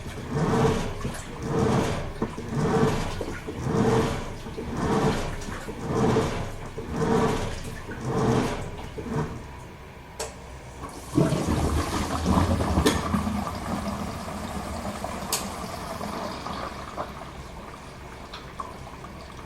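Toshiba AW-42SEE4 top-loading washing machine agitating: the pulsator swishes the wash water back and forth about once a second, with a motor hum on each stroke. The strokes stop about nine seconds in, and a couple of seconds later a rush of running water starts suddenly and slowly fades.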